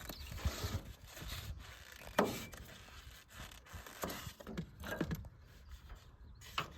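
Scattered knocks and scrapes of gear being handled in a canoe, with the sharpest knock about two seconds in and a few more around five seconds and near the end.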